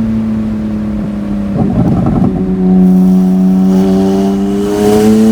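BMW 335i's N54 twin-turbo inline-six, straight-piped from the turbos back with catless downpipes, pulling hard with a loud raspy exhaust. About two seconds in there is a rough break where the pitch drops, like an upshift, and then the pitch climbs steadily as it accelerates again.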